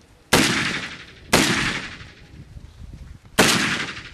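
Three gunshots: two a second apart, then a third about two seconds later. Each crack fades out in a long echoing decay.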